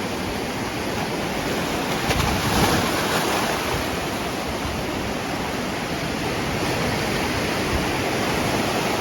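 Surf at high tide washing in against a seawall: a steady rushing wash that swells briefly about two to three seconds in.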